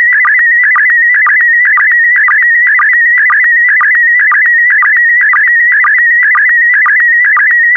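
Slow-scan TV image signal in PD120 mode: a warbling tone hovering around 2 kHz that carries the picture's scan lines, broken about twice a second by short low sync pulses near 1.2 kHz that mark each new pair of lines.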